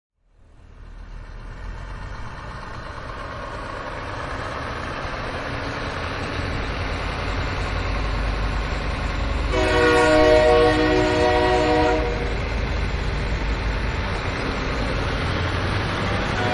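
Steady low rumble, like a vehicle or train, that fades in and grows louder, with a horn sounding for about two seconds near the middle.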